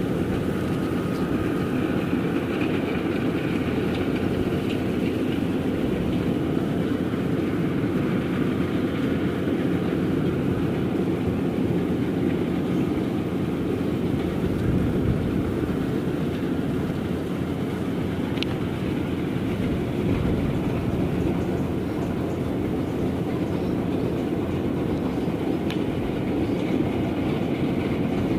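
Rice combine harvester running steadily, a continuous heavy machine noise from its engine and working parts.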